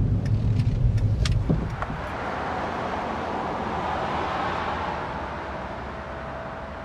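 A car driving past: a low engine rumble for the first couple of seconds, then tyre noise that swells and slowly fades away.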